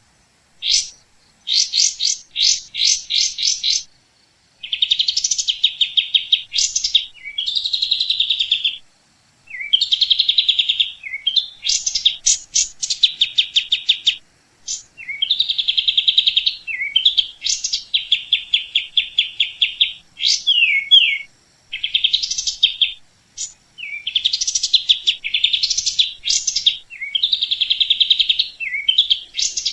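A small bird singing continuously in high, rapid trills: phrases of a second or two made of fast repeated chirps, broken by short down-slurred notes and brief pauses.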